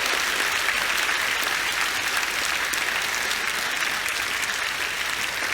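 An audience applauding steadily, a dense patter of many hands clapping in a large hall, following the end of a speech.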